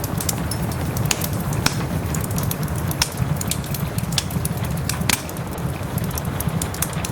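Wood fire in a fireplace crackling with irregular sharp pops, over a steady low rumble and the soft, even hiss of rain.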